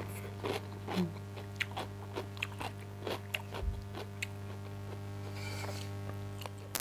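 A person chewing food close to the microphone: irregular short clicks and mouth sounds over a steady low hum, with a brief louder burst of noise at the very end.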